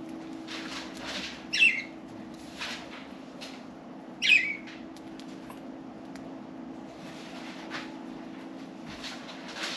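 Budgerigars chirping: two sharp calls that slide down in pitch, about a second and a half and four seconds in, with fainter short chirps between, over a steady low hum.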